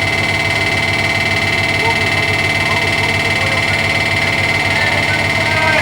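Railway locomotive standing close by with its machinery running: a steady high whine over a fast low throb.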